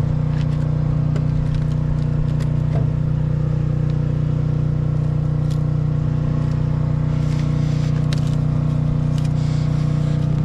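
An engine running steadily at a constant speed, with a few faint clicks and scrapes.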